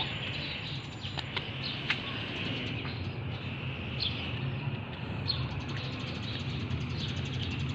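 Scattered short bird chirps over a steady low hum.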